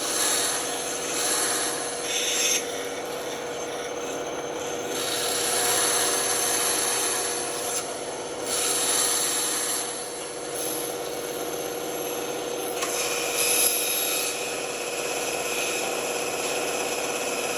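Band saw running with a steady hum as its blade cuts through wood. The cutting noise swells and eases in stretches as the piece is fed and steered.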